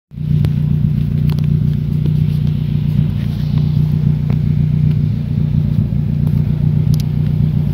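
Nissan Cube Z10 engine idling steadily through an aftermarket RS-R straight-through exhaust, a constant low drone with no revving.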